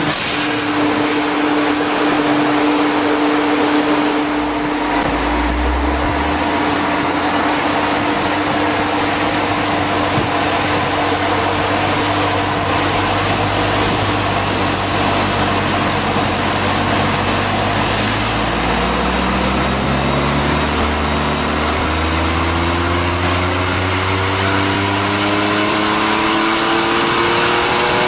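Twin-turbo Nissan 350Z's 3.5-litre V6 running on a hub dynamometer under a steady, loud whooshing noise. For roughly the last ten seconds the engine pitch climbs slowly and evenly, a gradual load sweep up through the revs.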